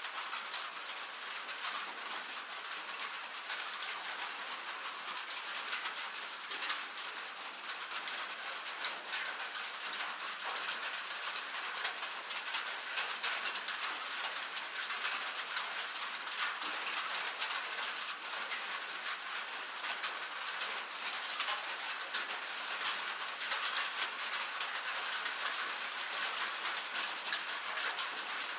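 Steady rain on a metal roof, a dense patter of countless fine drop ticks that holds at an even level.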